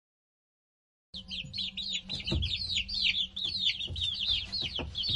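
Baby birds chirping: a rapid string of short, high, falling peeps that starts about a second in.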